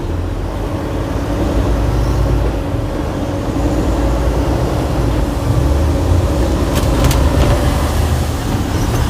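Heavy flatbed truck's diesel engine running as the truck pulls ahead and drives on, a steady low rumble heard from inside the cab. There are a couple of brief clicks about seven seconds in.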